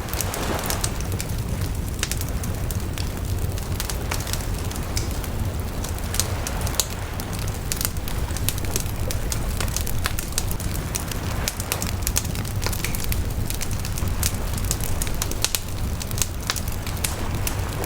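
Wood bonfire burning, with frequent irregular crackles and pops over a steady low rush of the flames.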